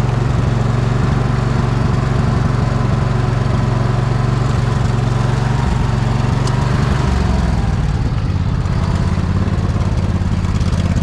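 Poulan riding mower engine running steadily under load while plowing snow. About seven seconds in, its note shifts lower and rougher.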